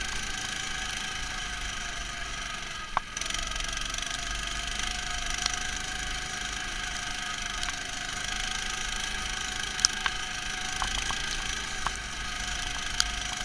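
Neva MS-1 walk-behind tractor's engine running steadily as it pushes through loose snow, heard muffled through the camera's enclosure, with scattered sharp clicks and knocks.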